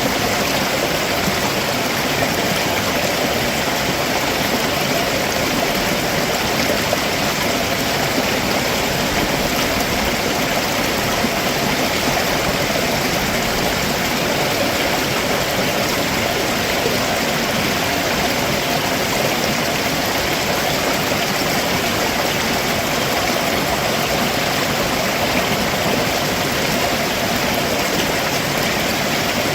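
A rocky stream flowing over stones below a waterfall: a steady, even rush of water that does not change.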